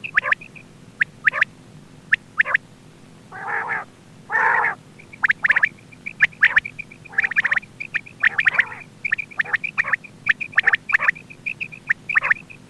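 Quail calling: a rapid run of short, high piping notes, broken by sharp clicking calls and two longer raspy calls about three and a half and four and a half seconds in.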